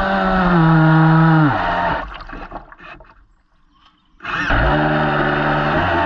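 Model boat motor running with a clear pitch that steps down as it is throttled back. The sound dies away about two seconds in, and a motor comes back in suddenly just after four seconds.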